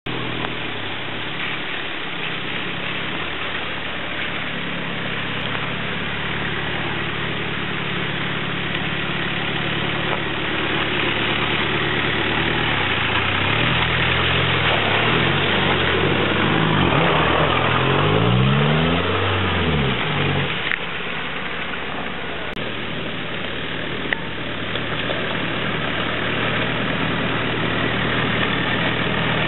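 Range Rover Classic engine running as the 4x4 drives through mud, revving up and back down about two-thirds of the way through.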